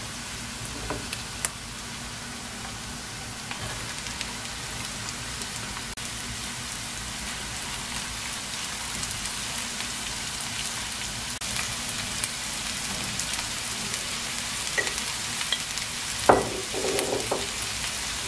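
Chopped broccoli, onion and carrot sizzling in hot olive oil in a nonstick pan while being stirred with a silicone spatula, the frying hiss steady throughout. A few short knocks against the pan, the loudest about sixteen seconds in.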